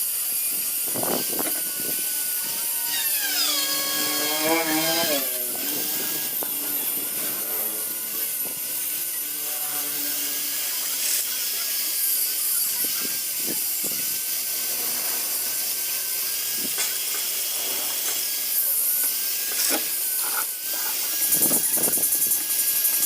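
Power tool running in a car body repair shop, with a steady high whine that dips now and then, and a few short knocks.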